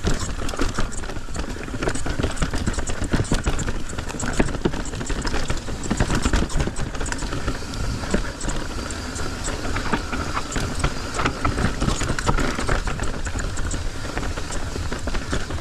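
Mountain bike clattering and rattling over a rough downhill trail, with dense irregular knocks over a steady low rumble.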